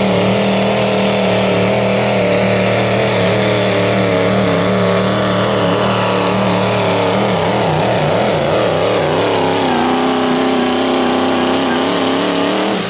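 Diesel 4WD pickup truck's engine at full throttle pulling the sled down the track. Its pitch holds steady, wavers up and down for a few seconds past the middle of the pull, then settles again before the engine drops away at the very end.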